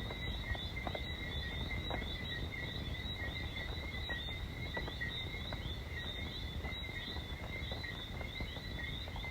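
Dense evening chorus of Caribbean whistling frogs: many short rising whistles overlapping several times a second over a steady trill. Underneath runs an even hiss of rain on a sheet-metal roof, with a few faint drip ticks.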